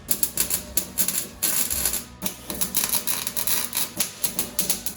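MIG welder arc crackling in fast, irregular bursts of sharp pops and clicks.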